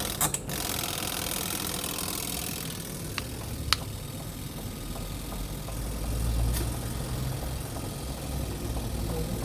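Semi-automatic twin-tub washing machine's spin dryer running: a steady motor hum with a low rumble that swells about six seconds in, and a sharp click a little before four seconds in.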